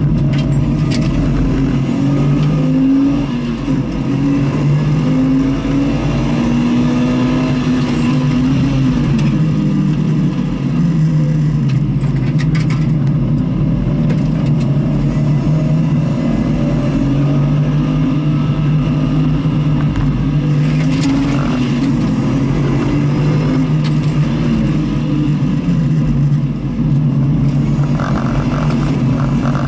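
Onboard sound of a vehicle lapping a race circuit: the engine pitch repeatedly climbs and drops as it accelerates and shifts, over steady wind and road noise.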